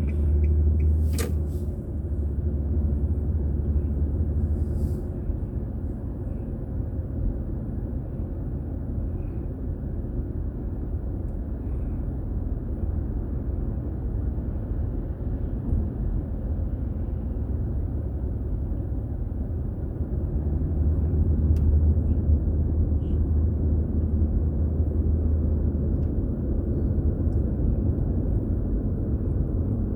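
Car driving on city roads: a steady low rumble of engine and tyres. It swells heavier in the first few seconds and again about two-thirds of the way through. One sharp click comes about a second in.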